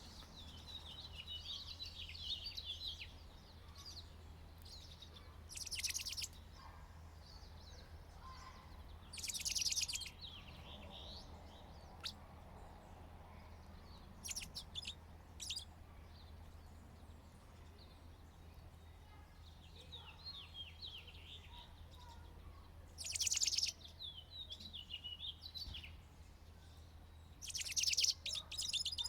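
Small songbirds twittering, with four short, fast trills, the loudest about 23 and 28 seconds in.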